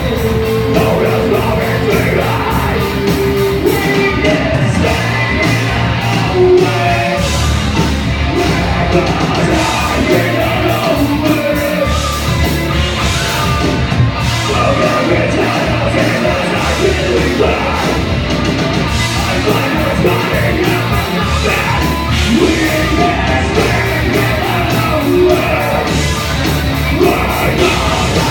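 Live rock band playing loudly, with a singer's voice over the instruments.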